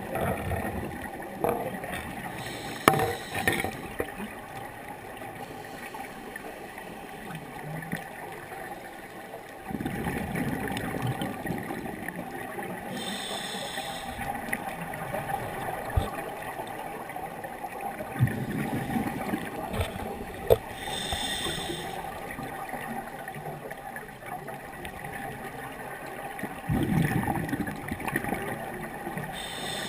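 Scuba regulator breathing underwater: exhaled bubbles gurgling and rumbling for a few seconds, each followed by a short hiss of the next breath drawn in, three breaths about eight to nine seconds apart.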